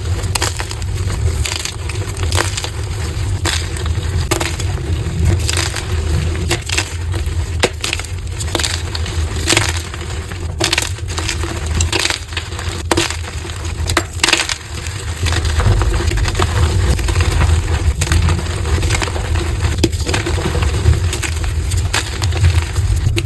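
Blocks of gym chalk crunching and crumbling as they are crushed, played back at double speed: many crisp cracks in quick, irregular succession over a steady low hum.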